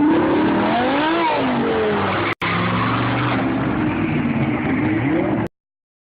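Car engine revving hard, its pitch climbing and then falling away about a second in, then running on at a steadier pitch. The sound drops out for an instant near the middle and cuts off suddenly near the end.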